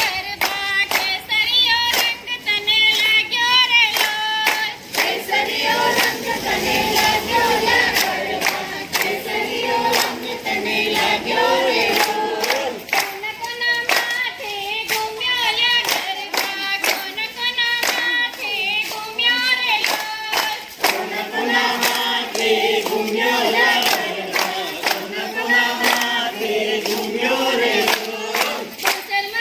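Garba song: a group of voices singing a devotional tune over a steady beat of sharp percussive hits.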